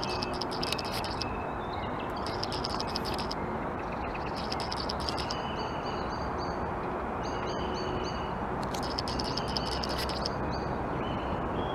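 Small birds chirping and singing in short repeated high notes over a steady background rumble of station and traffic noise.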